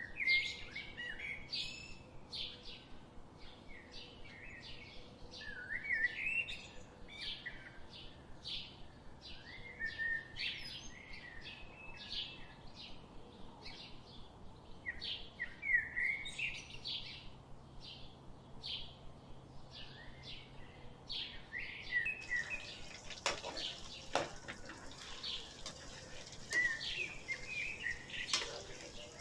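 Small birds chirping and twittering in quick repeated calls. A few sharp clicks or knocks sound near the end.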